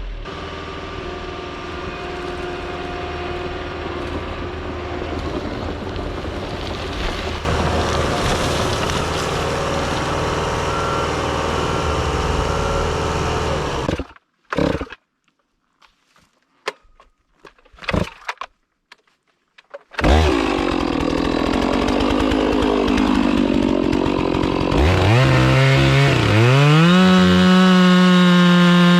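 Chainsaw cutting wood, its pitch wavering under load, then revving up to a steady full-throttle whine near the end. Before it comes a long stretch of steady engine running and a few seconds of near silence broken by brief noises.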